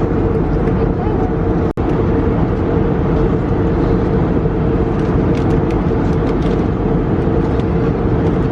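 Steady engine and airflow noise inside an airliner cabin in flight, with a constant hum; the sound drops out for an instant just under two seconds in.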